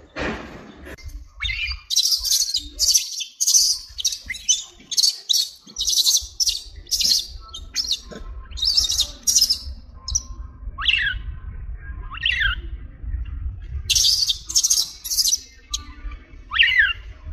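Birds calling: runs of short, harsh squawks, broken by a few whistled notes that each drop quickly in pitch.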